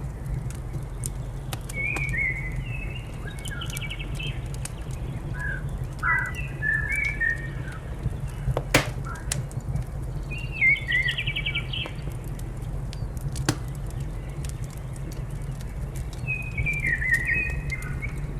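A songbird singing four short bursts of chirping phrases over a wood fire crackling and popping, with one sharp pop about halfway through and a steady low rumble underneath.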